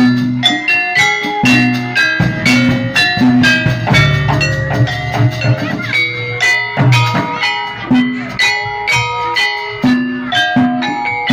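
Javanese gamelan music accompanying a jaranan dance: a quick, steady run of struck metallophone notes over low hand-drum strokes.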